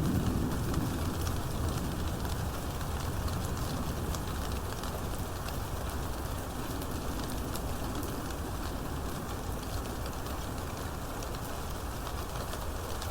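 Steady heavy rain, with many individual drops pattering over a constant wash of noise. A low rumble of thunder dies away in the first second or two.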